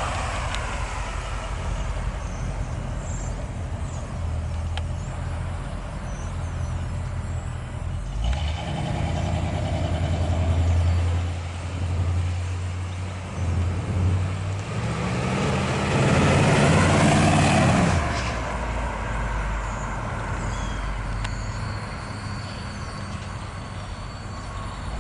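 1981 Chevrolet Corvette's 350 cubic-inch small-block V8 running as the car is driven, getting louder for a couple of seconds about sixteen seconds in as it accelerates.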